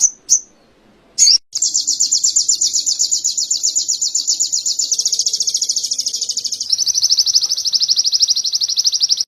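A songbird singing canary-style song: a few short, sharp high chirps, then a long, very fast, high trill that steps to a slightly lower pitch about two-thirds of the way through.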